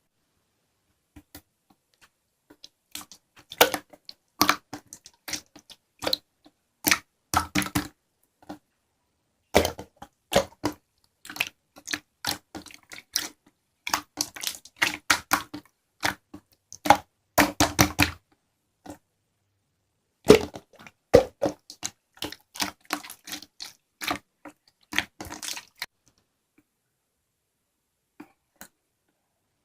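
Clear slime being squeezed and stretched, giving off irregular clusters of sticky pops and crackles; they stop a few seconds before the end.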